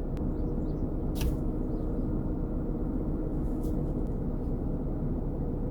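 Steady low rumble inside a stationary car's cabin, with a faint hum in the first few seconds and two small clicks, about a second in and near four seconds.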